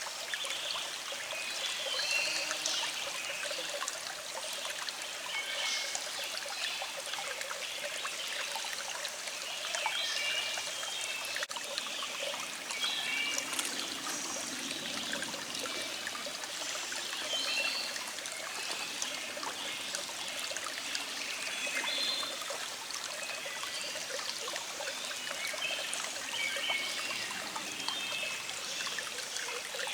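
Small stream trickling and flowing steadily, with birds singing in the background in short repeated chirps.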